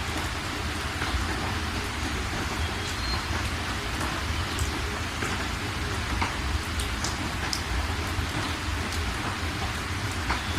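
Steady rain falling, a constant hiss with scattered individual drops ticking, over a steady low rumble.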